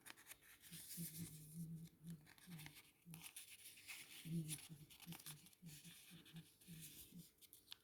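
A sheet of paper being handled and folded by hand: faint, irregular rustling and crinkling as creases are made.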